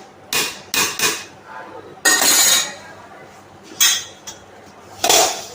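Metal cookware clattering as a lid is put on a pot: a few sharp clinks and clanks, with a longer scrape of metal on metal about two seconds in.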